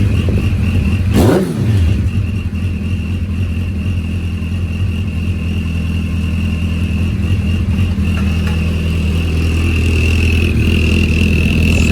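Suzuki Hayabusa's inline-four idling through an Akrapovic exhaust fitted with a cheap turbo whistle insert, a steady high whistle sitting over the idle. About a second in, one quick rev blip rises and falls, then the engine settles back to idle with the thin whistle still sounding.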